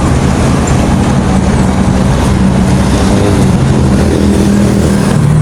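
An engine running steadily with a low rumble and a steady hum that holds its pitch.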